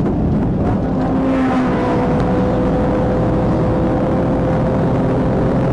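Vehicle engine running hard with dense road noise, a steady engine note rising slightly about a second in and then holding level, as on pursuit dashcam audio.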